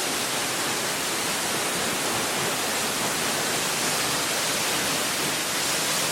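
Waterfall rushing: a steady, even wash of falling water close by.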